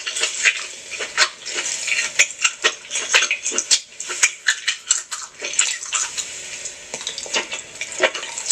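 Close-miked wet eating sounds of someone eating crab legs: dense, irregular smacking, slurping and squelching of a full mouth.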